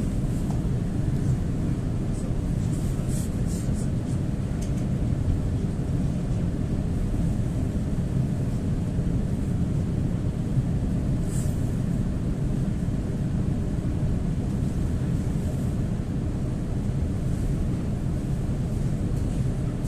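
Steady low rumble of an EP2D electric multiple unit running at speed, heard from inside the passenger car: wheels on the rails and the train's running gear, with a few faint high ticks.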